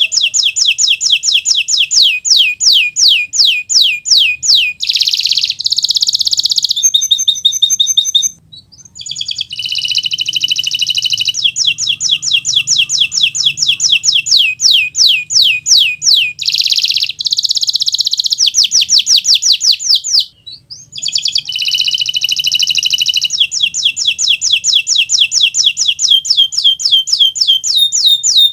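A Kenari Nusantara canary singing loud and nonstop: runs of rapid repeated sweeping notes, about three a second, alternating with dense buzzing trills. The song breaks off briefly twice.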